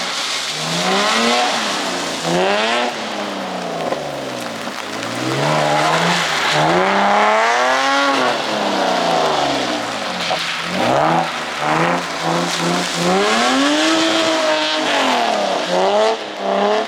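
A car engine revving up and falling back again and again as it is driven hard through a drift, over a steady hiss. Near the end the revs hold at one pitch and then stutter in quick pulses.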